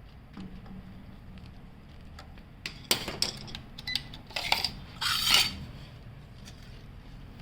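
Metal parts clinking and scraping as they are handled: a short run of clattering from about three seconds in until about five and a half seconds in, loudest near the end, over a low steady hum.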